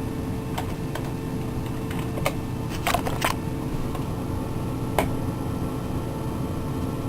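Steady hum of a computer fan in a small room, with about half a dozen sharp clicks of a mouse or keys at uneven intervals, the loudest near the middle and about five seconds in.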